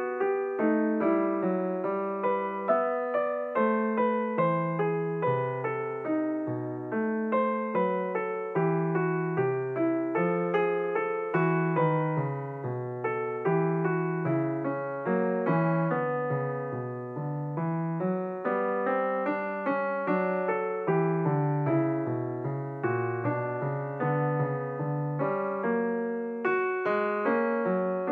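Piano music: a steady run of struck notes, each fading away, playing throughout.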